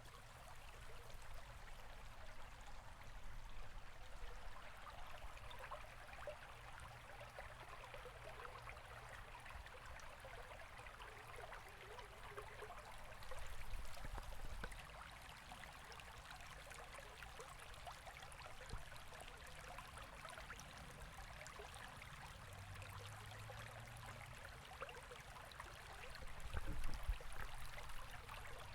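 A river flowing and splashing steadily, with a dense patter of small splashes. Deep low rumbles swell twice, briefly, the second one near the end the loudest.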